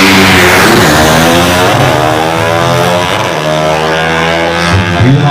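Drag-racing motorcycle engines revving loudly, the pitch climbing and falling several times, with a steadier lower engine note for a second or so in the latter half.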